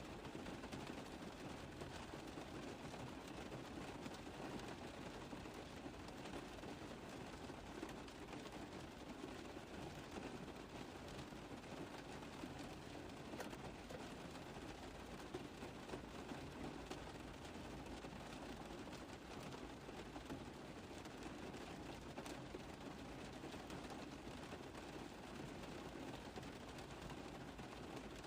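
Rain on a car roof: a steady, dense patter of many small drop hits with no letup.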